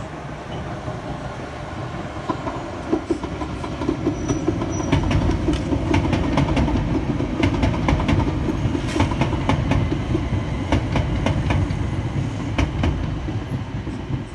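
A train passing close by: a low rumble that builds to its loudest in the middle and then eases, with the wheels clacking over rail joints in a quick run of sharp clicks.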